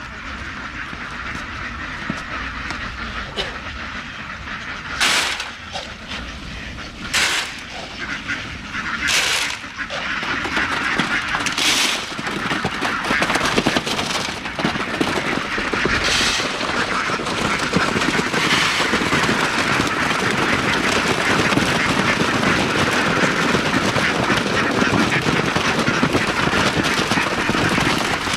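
Flock of farm ducks quacking and honking in a busy chorus, with a few sharp loud calls standing out in the first half. It thickens into a constant din from about ten seconds in.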